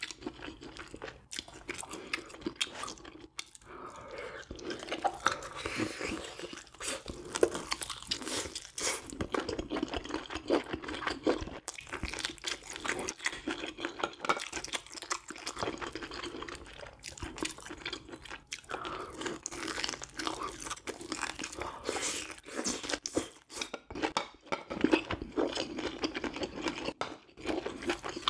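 A person chewing and crunching food close to the microphone, with a dense, irregular run of wet mouth clicks and crunches.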